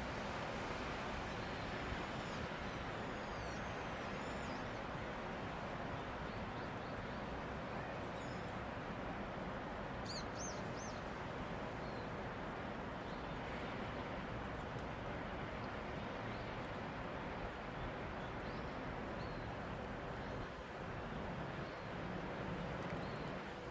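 Steady rain falling, an even hiss, with a few short bird chirps over it about two seconds in, again about ten seconds in, and a few more later.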